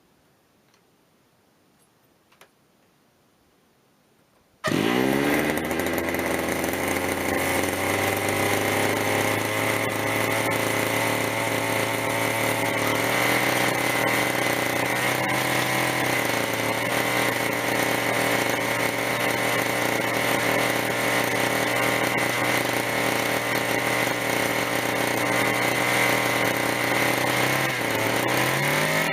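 Zenoah 26cc two-stroke petrol engine of a radio-controlled helicopter firing up suddenly about four and a half seconds in, its pitch rising briefly before it settles into a steady run. Near the end its speed begins to rise and fall. It is a warm restart on a rich fuel mixture.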